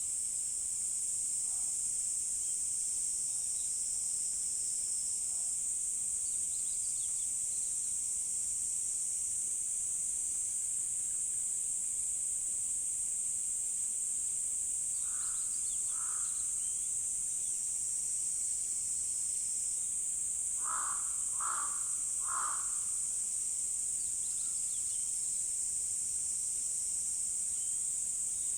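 A steady, high-pitched chorus of insects, with a crow cawing twice about halfway through and then three times a few seconds later.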